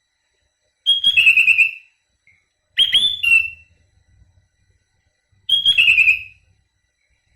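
Sooty-headed bulbul (kutilang) singing three short whistled phrases. Each starts with a high note and drops to a lower, quickly repeated note.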